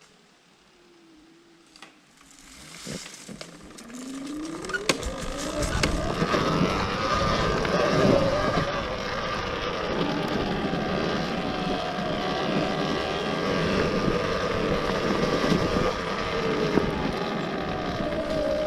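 Electric enduro motorcycle pulling away: its motor whine rises in pitch about three seconds in, then keeps running with a whine that wavers up and down as the throttle changes, over tyre and trail noise with occasional knocks.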